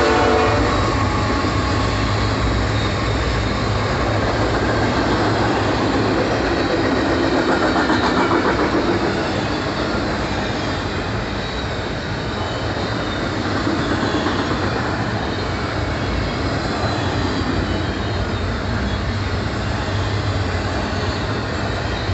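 Double-stack intermodal freight train passing close by: the steel wheels of the container well cars make a steady, even rolling noise on the rails.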